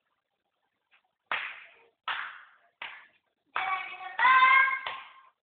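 Drum band at practice: three sharp struck percussion hits about three-quarters of a second apart, each ringing out briefly, then a run of held melodic notes.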